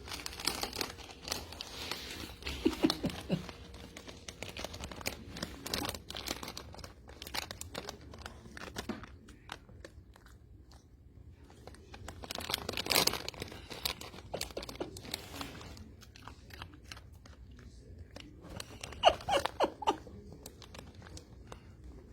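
A Pomeranian rummaging in a crinkly snack bag and crunching baked plantain chips, with the bag rustling and crackling in irregular bursts.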